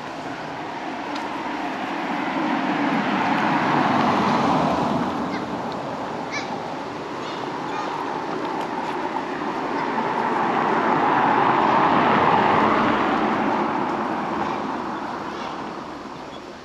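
Two road vehicles passing close by one after the other, their tyre and engine noise swelling up and fading away, the first peaking about four seconds in and the second near the three-quarter mark.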